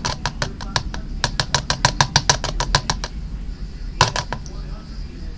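A spoon stirring slime mixture in a container, clicking rapidly against its side at about seven strokes a second. The stirring pauses after about three seconds, then a few more quick strokes come about four seconds in.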